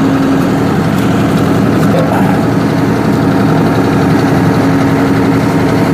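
Tractor diesel engine running at a steady speed to power a hydraulic log splitter, with a constant hum.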